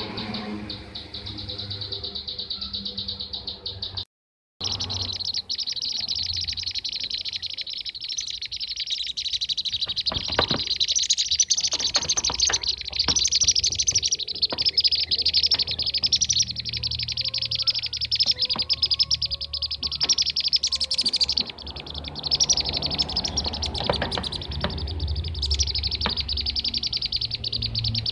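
Dense, continuous chattering of kirik-kirik (bee-eaters): many rapid, high trilling calls overlapping without pause, as in a lure recording used to call the birds in. The sound cuts out briefly about four seconds in.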